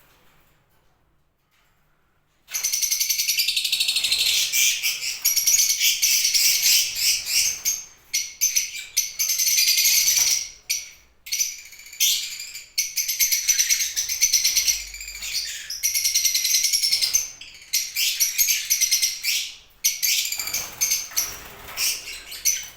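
Many small cage birds chirping in a dense, high-pitched chorus, starting after about two and a half seconds of near silence and going on with short breaks.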